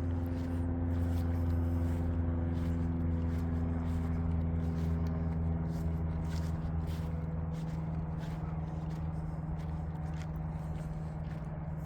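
An engine's steady low drone that slowly fades, with scattered footsteps on a path.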